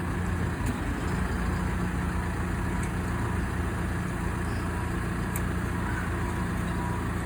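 A large engine idling steadily with a low, even rumble and hum.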